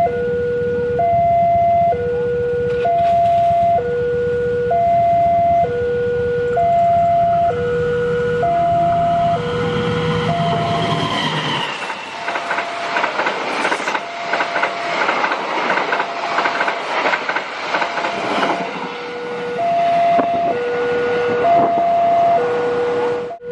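Level-crossing warning signal sounding its alternating two-tone alarm, switching pitch about once a second. About halfway through, a train passes the crossing slowly with a dense clatter of wheels over the rails, half drowning the alarm for several seconds before the two tones come back clearly near the end.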